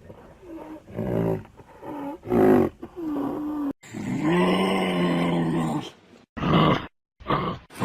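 A large animal calling again and again: several short pitched calls, then one long call lasting about two seconds, then two more short calls near the end.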